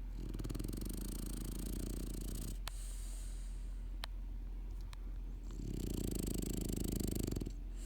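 Snoring: two long, rattling snores about five seconds apart, with a few sharp ticks between them, over a steady low hum.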